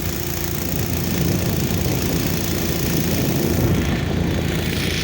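Motorboat engine running steadily at low speed.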